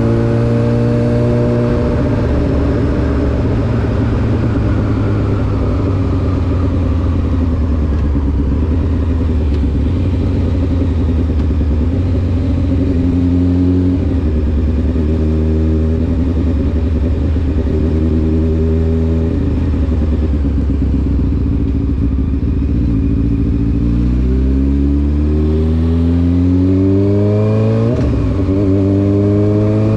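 Honda CBR600F4's inline-four through an SC Project aftermarket exhaust while riding, holding a steady note for most of the time. From about three-quarters of the way in, the pitch rises under acceleration, breaks briefly at a gear change near the end, then climbs again.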